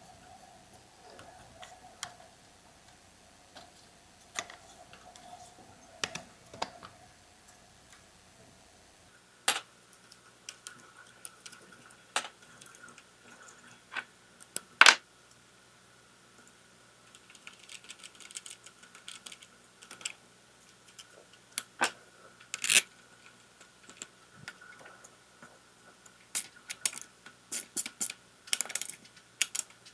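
Intermittent sharp clicks and taps of small plastic and metal chainsaw parts being handled and fitted by hand during reassembly, with a quick run of clicks near the end.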